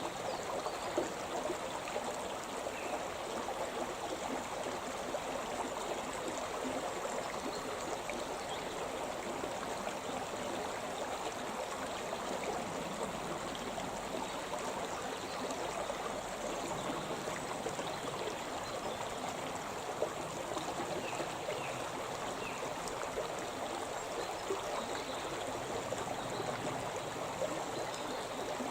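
Mountain river flowing over rocks, a steady rushing and splashing of water.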